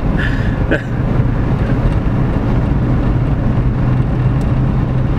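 C5 Corvette's V8 engine running at a steady cruise while the car is driven, an even drone with road noise underneath.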